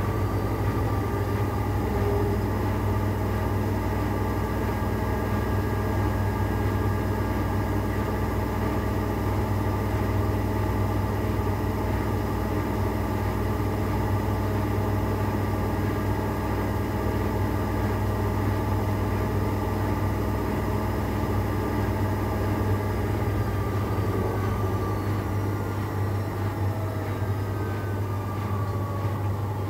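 AEG Lavamat 8000 Series washing machine spinning at speed with a steady motor hum and whine. Near the end the pitch starts to fall as the drum begins to slow at the close of the spin.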